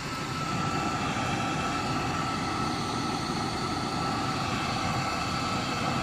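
Hairdryer running steadily on its low speed, forcing air into a homemade rocket stove's burner: an even rush of air and fire with a thin constant whine.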